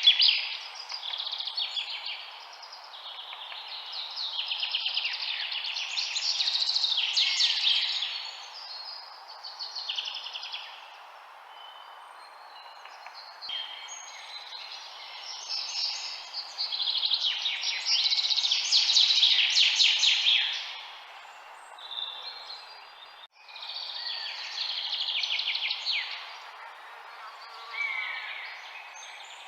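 Several songbirds singing in overlapping chirps and fast trills, coming in phrases a few seconds long over a steady background hiss. The sound cuts out briefly about two-thirds of the way through.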